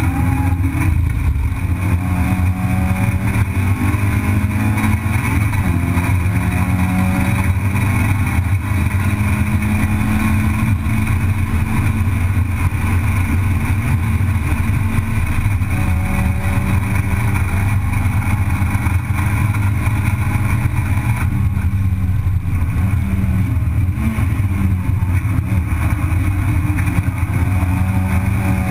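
Racing car's engine heard from inside the cockpit at speed, loud and continuous, its pitch climbing and dropping back several times as it runs through the revs and gears.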